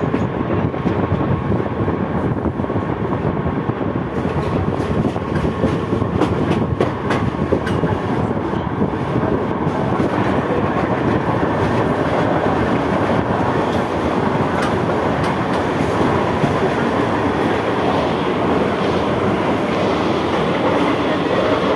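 Mumbai suburban local train running at speed, heard from the open doorway of a carriage: a steady rumble of wheels and carriage, with a run of sharp clicks from the wheels crossing rail joints about a third of the way through.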